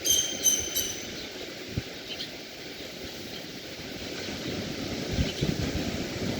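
A bird calls a quick run of short, high notes in the first second, over a steady low rush of sea surf that grows a little louder toward the end.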